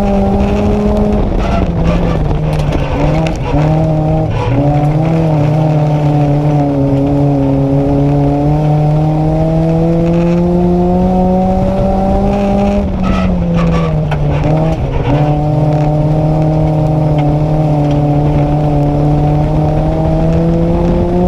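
Nissan Micra race car's engine heard from inside the car, running at high revs and dropping in pitch twice as the driver lifts for the corners, then pulling back up along the straights. Tyre noise comes through the turns.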